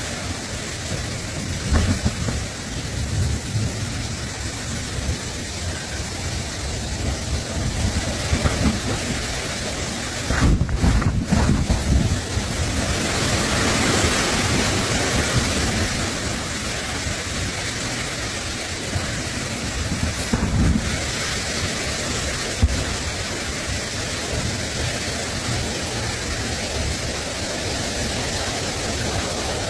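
Steady outdoor hiss with low rumbling gusts of wind on the microphone, the strongest about a third of the way through and another about two-thirds in.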